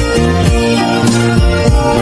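Karaoke backing track with the lead vocal removed: band instrumental playing sustained notes over a steady drum beat.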